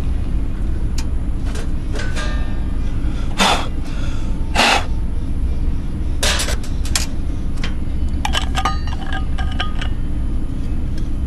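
Steady low rumble of wind on the microphone, with scattered knocks and a few metallic clinks about two-thirds of the way in.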